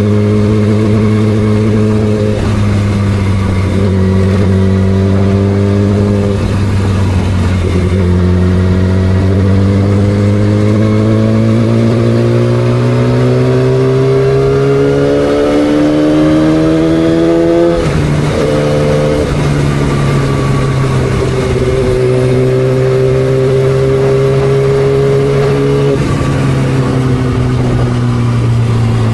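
Yamaha R6 motorcycle's inline-four engine under way, its note climbing slowly as it accelerates, dropping sharply at a gear change a little after halfway, then holding steady before easing off near the end.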